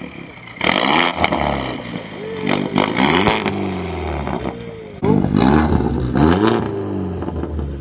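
A car engine revved hard several times in short blips, its pitch rising and falling back with each one, with loud harsh crackling bursts from the exhaust.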